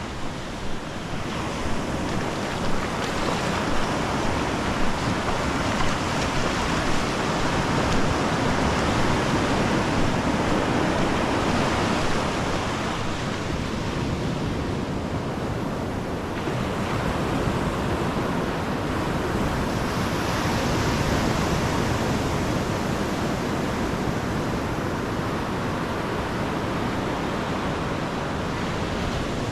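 Ocean surf washing onto the beach in a continuous rush that swells and eases slowly. For the first dozen seconds there are light thumps about once a second, in step with walking footsteps.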